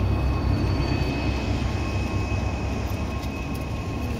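Train passing: a steady low rumble with a thin, steady high whine running over it.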